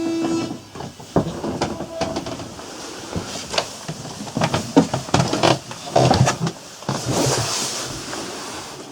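A steady buzzing tone cuts off about half a second in, followed by a string of irregular knocks and clunks, with a brief hiss near the end.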